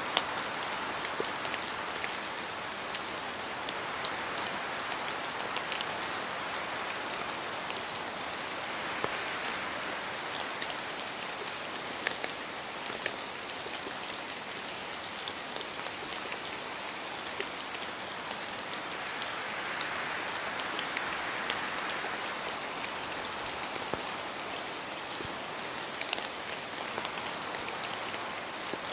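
Steady rain falling, a dense hiss dotted with many sharp individual drop hits. The hiss swells slowly a few times.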